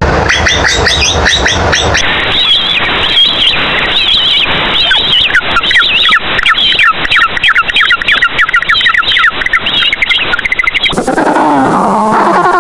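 Animal calls across several cut-together clips: rapid high chirping for most of the stretch, then, near the end, lower calls sliding up and down in pitch.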